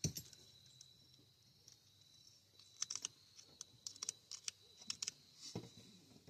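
Light clicks and taps of metal tools and parts being handled at a truck's front wheel hub, with a sharp knock at the start and another near the end. A steady cricket trill runs behind.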